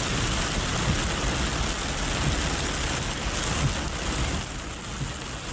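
Steady hiss of heavy rain over a low rumble of traffic.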